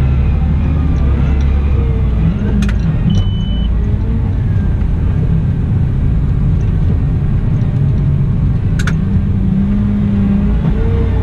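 Cat 972M XE wheel loader's diesel engine running steadily at work, a deep rumble with slowly shifting engine tones. Two sharp clicks and a brief high beep sound over it.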